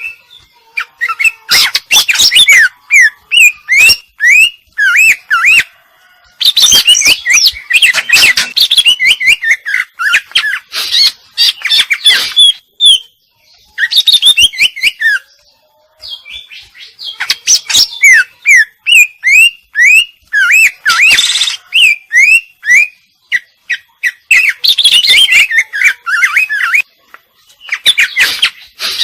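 Female cucak ijo (green leafbird) singing loudly in long, fast phrases of chirps and sweeping whistled notes, broken by a few short pauses; its song is full of varied notes of the kind bird-keepers call isian, mimicked calls of other birds.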